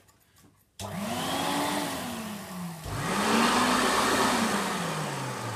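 Upright vacuum cleaner motor starting suddenly about a second in and again near the middle, its pitch rising and then sinking each time over a loud rush of air.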